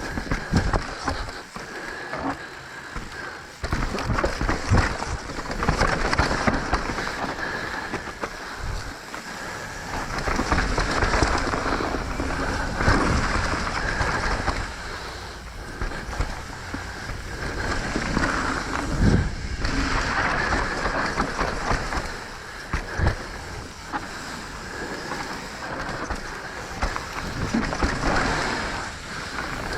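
Mountain bike rolling fast down a dirt trail: an uneven rolling rush from the tyres with frequent knocks and rattles as it goes over bumps.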